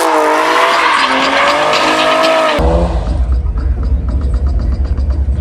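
Car tyres squealing with a wavering, pitch-bending screech over engine and road noise. About two and a half seconds in it cuts off abruptly, giving way to a steady deep rumble.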